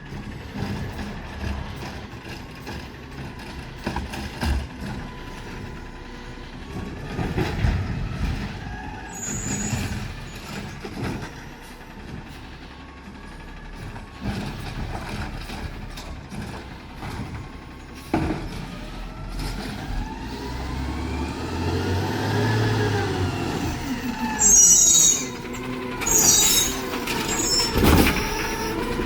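Garbage truck at work: the diesel engine runs with knocks and clanks, its pitch rising and falling in the second half, and a few short, loud hisses of air come near the end.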